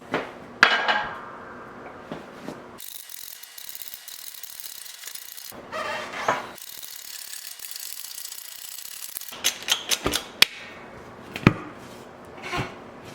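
Hand tools working on a garden tractor tire and wheel: sharp metal knocks and scraping, a hiss lasting about three seconds starting about three seconds in, then a quick run of sharp clicks and knocks near the end.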